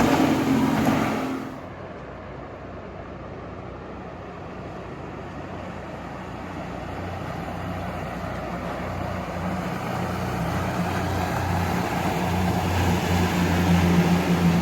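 Motorboat engines droning: one boat's engine fades away in the first second or two, then another boat's engines grow steadily louder as it approaches, a low steady hum.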